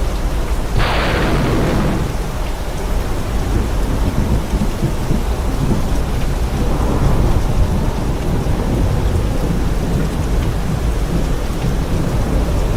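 Thunderstorm: steady heavy rain with continuous low rolling thunder, and a sharp thunder crack about a second in that fades out over the next second.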